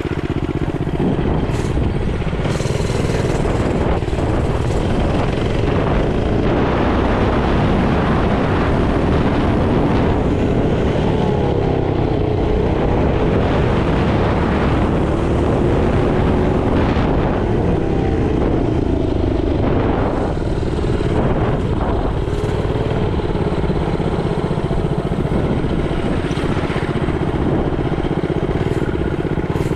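Mini bike engine running steadily while riding, its pitch drifting slightly up and down, with rushing wind noise on the microphone.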